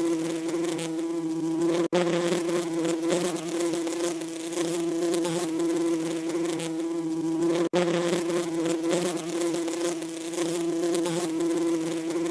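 Bees buzzing in a steady, continuous drone of unchanging pitch, broken twice by a split-second silent gap, about two seconds in and again near eight seconds.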